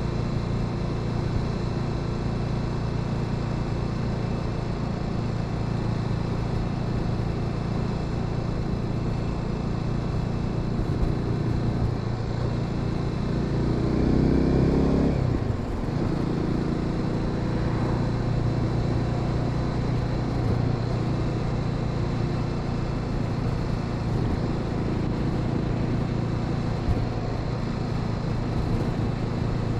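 Honda Sahara 300 motorcycle engine running under way at a steady pace. About halfway through its note climbs and grows louder for a few seconds, then drops suddenly, as at a gear change.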